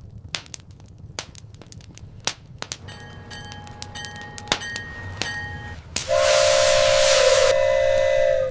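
Fire crackling and popping throughout, with a steam locomotive whistle blowing faintly about three seconds in. About six seconds in, a louder two-tone steam whistle blows along with a rush of steam hiss; the hiss cuts off shortly before the end while the whistle keeps sounding.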